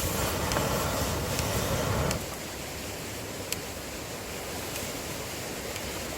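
Swedish torch log fire burning with scattered sharp crackles. A rushing noise is louder for the first two seconds and then drops off suddenly.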